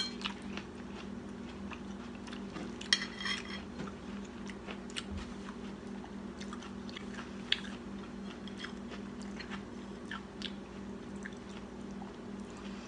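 A person chewing a mouthful of stir-fried corn and fried shrimp balls, with scattered small clicks of a metal spoon on the plate. A steady low hum runs underneath.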